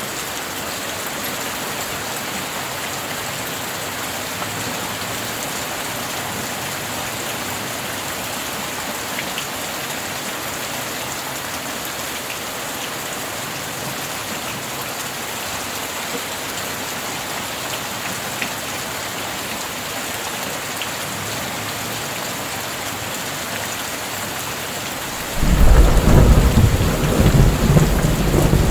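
Steady heavy rain falling. Near the end a loud, low rumble of thunder breaks in suddenly and rolls on.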